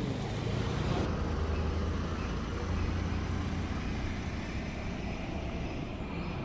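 A motor vehicle's engine running, a steady low hum over road noise that eases off slightly in the second half.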